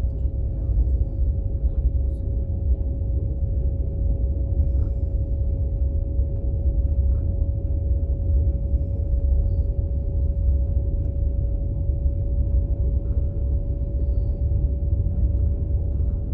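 Steady low rumble of a moving passenger train heard from inside a sleeper carriage, with a steady hum held at one pitch over it and a few faint ticks.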